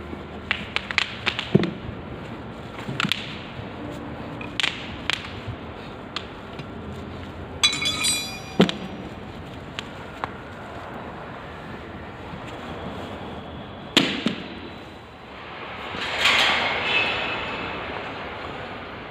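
Scattered clinks and knocks of hand tools and scooter wheel parts being handled, with a short rattle about eight seconds in, a sharp knock later on and a longer scraping rush near the end.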